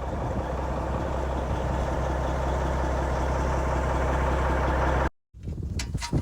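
An engine idling steadily, with a deep even hum, that cuts off abruptly about five seconds in.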